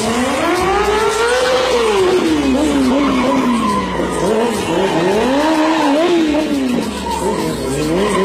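Yamaha R6 motorcycle's inline-four engine revving hard during street stunts. The pitch climbs for about the first second and a half, drops, then rises and falls several more times in shorter throttle blips.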